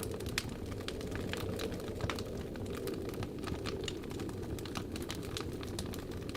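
Wood fire crackling in a fireplace, with many sharp, irregular pops and snaps over a steady low rush of wind.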